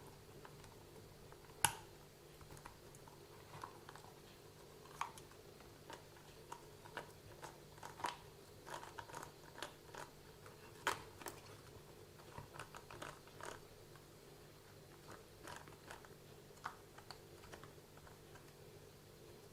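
Faint, scattered clicks and taps of small RC car drivetrain parts being handled and turned by hand, with a sharper click about a second and a half in and another near eleven seconds.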